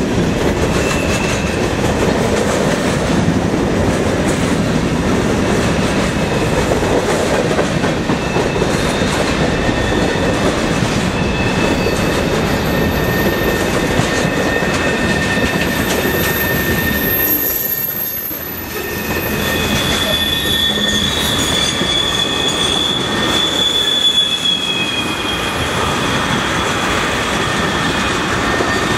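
Freight train cars rolling past close by: a steady loud noise of steel wheels on rail, with high, held wheel squeals that come and go, strongest in the second half. The noise drops briefly about 18 seconds in.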